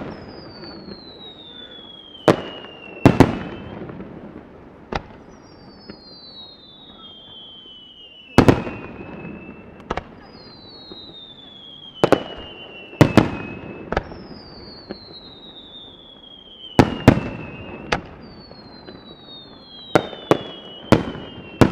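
Fireworks display: aerial shells go up with whistles that fall in pitch over about three seconds, roughly every four seconds, and burst with about a dozen sharp booms that echo, some in quick pairs.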